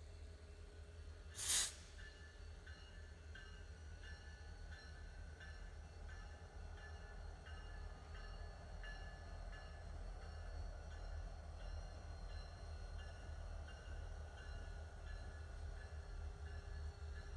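A freight train's diesel locomotives rolling slowly past with a steady low rumble and faint, regular clicks. A brief, loud hiss about one and a half seconds in.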